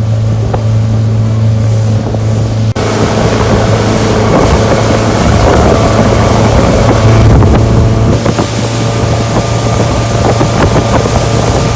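Motorboat engine running steadily with the boat underway, with wind buffeting the microphone. The wind noise jumps sharply louder about three seconds in and stays up.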